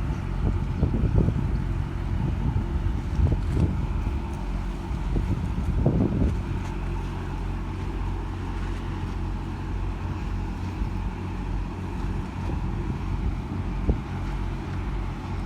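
Tugboat's diesel engine running steadily at a low idle in forward gear while towing a loaded barge. The owner of the comment thinks it is barely above idle yet still pulling the load. Gusts of wind buffet the microphone during the first several seconds.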